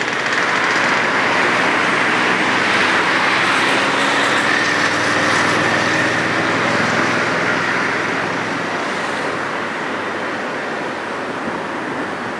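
A vehicle engine running with a steady rush of noise and a faint, slowly rising hum, easing off somewhat in the second half.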